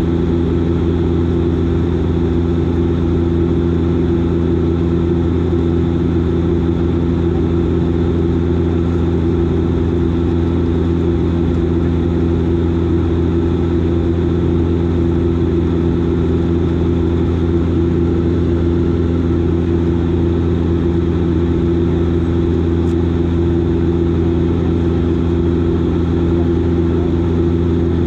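Bombardier Dash 8 Q400 turboprop in flight: its Pratt & Whitney PW150A engines and six-blade propellers drone steadily, a constant low hum carrying several steady tones.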